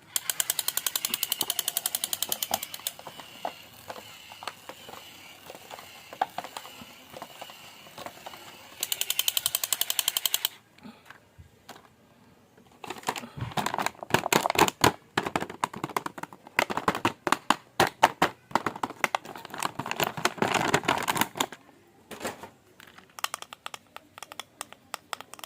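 Rapid, evenly spaced clicking in two runs, then a longer stretch of irregular clicking and rattling, typical of plastic toys and their packaging being handled.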